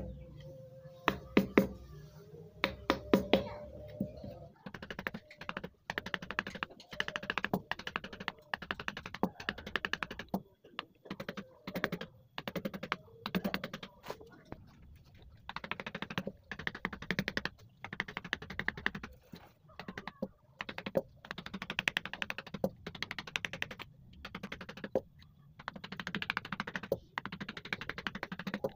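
Rapid light tapping of a mallet on a wood-carving chisel cutting into wood, in runs of a second or two with short pauses. A few louder single strikes come in the first few seconds.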